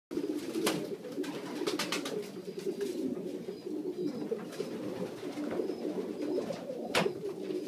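A loft full of racing pigeons cooing in a continuous low murmur, with a few sharp clicks or knocks in the first couple of seconds and one louder one about seven seconds in.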